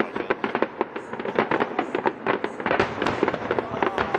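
Fireworks display: a dense, rapid crackle of many sharp bangs, several a second, growing thicker and a little louder about halfway through.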